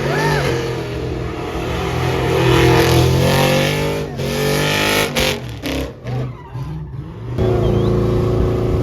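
Truck engine revving up, its pitch rising for a few seconds before dropping back, then settling into a steady, loud run near the end.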